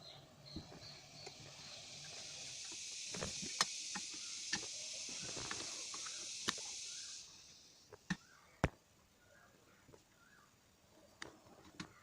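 A steady hiss, such as air or spray jetting out, that builds up over about two seconds, holds for about five more, then stops. Sharp clicks and knocks come through it and after it.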